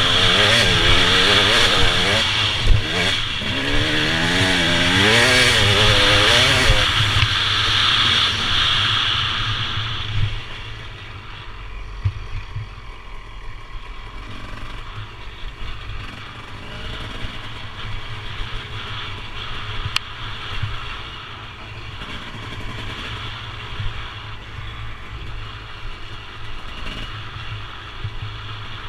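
Motorbike engine on a ride, its pitch rising and falling repeatedly with the throttle over a strong rush of noise. About ten seconds in it falls away to a much quieter, rough background with scattered knocks.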